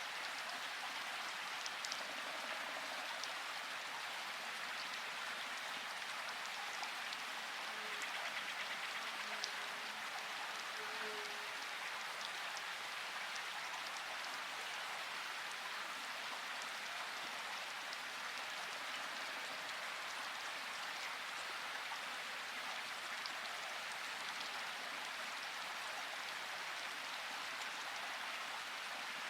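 Steady rain falling, an even hiss with scattered drop ticks that holds level throughout.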